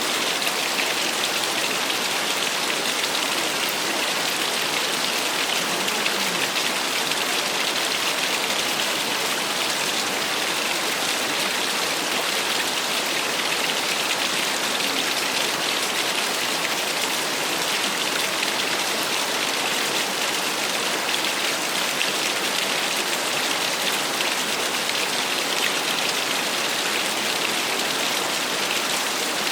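Small waterfall: water falling and splashing in a steady, even rush that is bright and hissy rather than deep, without change.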